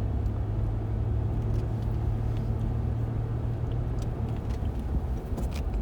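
Car being driven, heard from inside the cabin: a steady low rumble of engine and road noise, with a few faint clicks.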